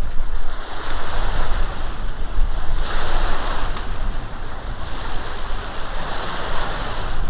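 Wind buffeting the microphone over the hiss of sea water rushing and splashing along a boat's hull. The water noise swells and eases, loudest about three seconds in and again near the end.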